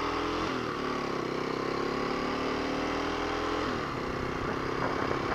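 Kawasaki KLX250's single-cylinder four-stroke engine running on the move. Its pitch climbs steadily, then drops sharply about half a second in and again near four seconds as it shifts up through the gears.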